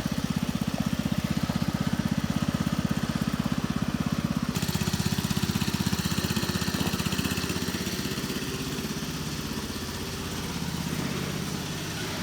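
International Cub Cadet garden tractor's engine running steadily with an even, fast pulse. Its sound shifts slightly about four and a half seconds in.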